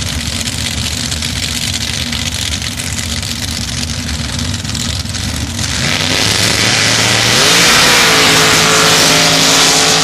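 Sand drag racing truck's engine running at low revs, then launching at full throttle about six seconds in: the engine note climbs quickly and holds high and loud through the run.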